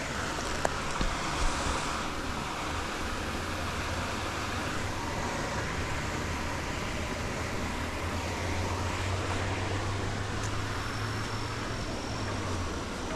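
Steady rushing of a river flowing past a small dam, an even wash of water noise with a low rumble under it.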